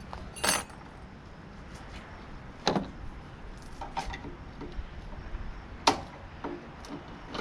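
Small metal parts and hand tools clinking and knocking while a tankless water heater is taken apart: a handful of separate sharp clinks, the loudest about half a second in, near three seconds and near six seconds.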